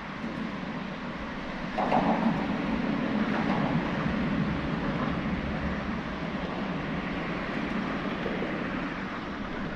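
Steady rushing noise of wind buffeting the microphone, swelling in a gust about two seconds in and holding.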